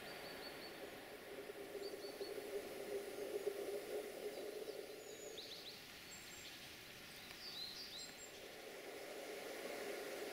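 Faint outdoor ambience: a steady low background rush, with small birds calling in short high chirps several times, including a few quick falling notes about halfway through.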